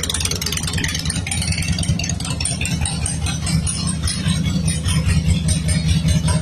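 Harley-Davidson V-twin motorcycle engine idling steadily, its low, pulsing exhaust note overlaid with a fast mechanical clatter.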